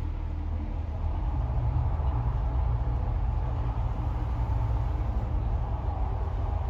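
Deep, steady rumbling of the Mirage volcano show's eruption sound effects, growing louder about a second in.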